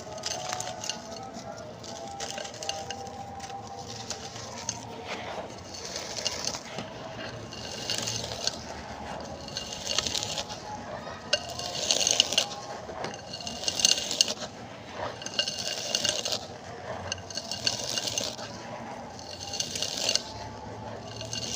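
Pink chalk being crumbled by hand into dust, a dry gritty crunching and crackling that comes in repeated handfuls about every two seconds.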